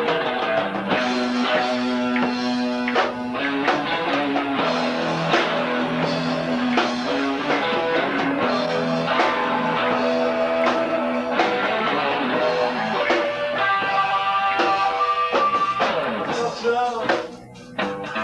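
Live rock band playing an instrumental passage: electric guitar, bass guitar and drum kit. Near the end the playing drops away briefly before picking up again.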